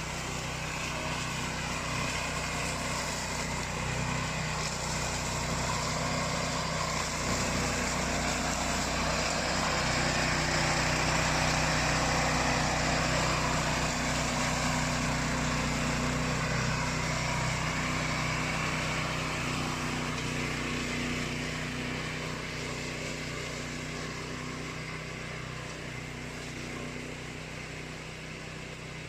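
Remote-control flail mower's engine running steadily with the hiss of the flail rotor. It grows louder to a peak about ten seconds in, then slowly fades.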